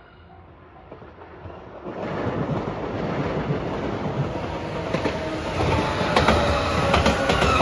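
JR 213 series electric multiple-unit train approaching and passing close by. Its noise rises from about two seconds in, and wheels click over the rail joints in the last few seconds.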